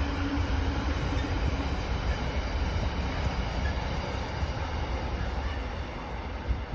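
Train running on the rails, a steady deep rumble of wheels and track with a faint hum, easing off a little near the end.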